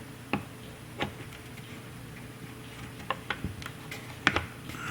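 Scattered light clicks and knocks of a power plug and cord being handled and pushed into a wall outlet, at irregular intervals, with a pair of sharper knocks near the end.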